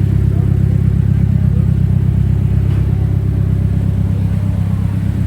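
A car engine idling close by: a steady low rumble.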